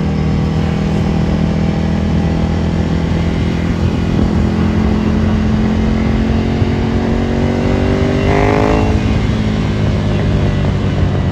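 Ducati Monster 797's air-cooled L-twin engine through a Termignoni exhaust while riding: running steadily with the revs climbing slowly, then a quick rise in revs about eight seconds in that drops straight back.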